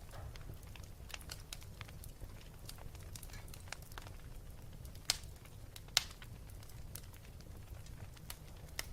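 Wood fire burning with steady crackling, many small snaps over a low rumble, and two louder pops about five and six seconds in.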